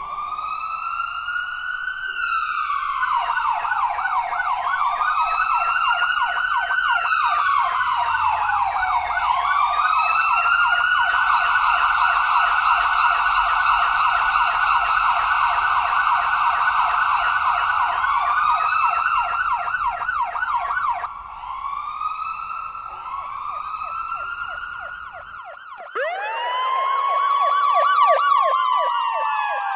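Ambulance and fire truck sirens sounding together: slow wails rising and falling, layered with a fast yelping warble, over a low rumble. About 26 s in, the rumble stops and a new siren starts, rising steeply into a wail.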